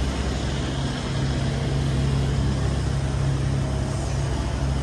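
A motor vehicle engine idling with a steady low hum, over the general noise of a city street.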